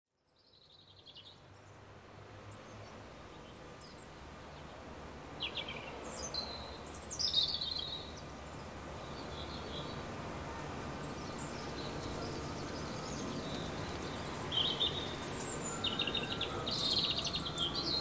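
Small garden birds chirping and twittering in short high calls and trills over steady outdoor background noise, fading in from silence over the first couple of seconds.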